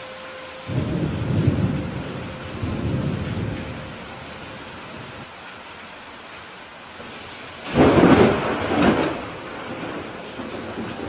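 Steady rain with thunder. Low thunder rumbles come about a second in and again around three seconds, then a louder, sharper thunderclap near the end, with a second peak a second after it.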